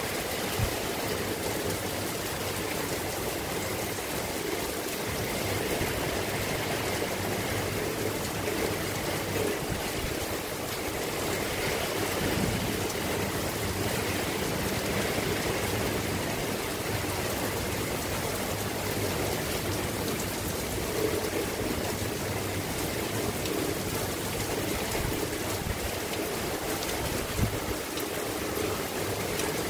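Steady rain falling, an even hiss of water with a few louder single drop ticks.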